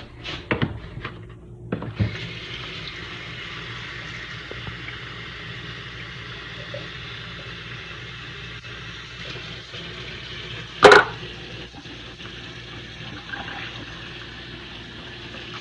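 Water running steadily from a tap, filling a container, after a few knocks of handling at the start; a brief loud clunk about eleven seconds in.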